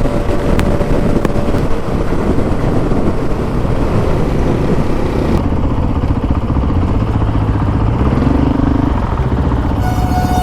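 Honda CRF450RL's single-cylinder four-stroke engine running at road speed, heard under heavy wind rush on the microphone. The high hiss drops off about halfway through.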